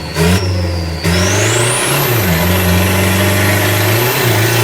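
Remapped race car's engine revving hard under full acceleration, its pitch dropping briefly near the start and again about a second in as gears change. A high whine rises from about a second in and then holds.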